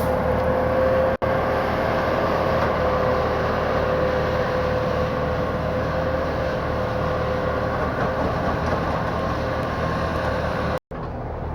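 Steady engine or machinery noise with a constant mid-pitched drone, cut off for an instant twice: about a second in and near the end.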